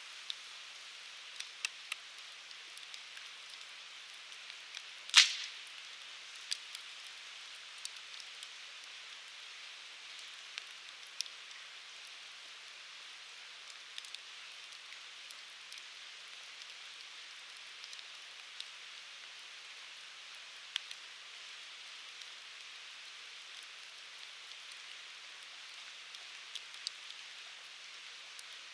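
Wood fire burning, a steady soft hiss with scattered irregular crackles and one loud sharp pop about five seconds in.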